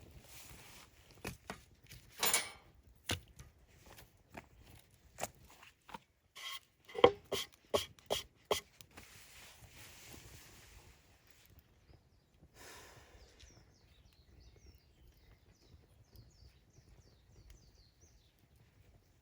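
A run of irregular sharp knocks and clatters of hard objects being handled, with the loudest a little past the middle. The knocks then stop, leaving faint high chirps.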